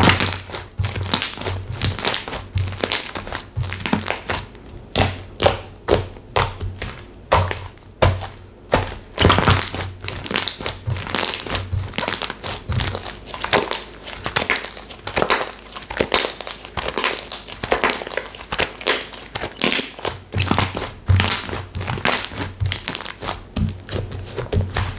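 Hands pressing, poking and squishing textured slime, making irregular crackling and popping clicks several times a second.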